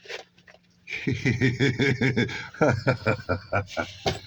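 A man's voice in a run of quick rising-and-falling syllables, like a chuckle or muttered words, starting about a second in and lasting about three seconds, after a few faint clicks.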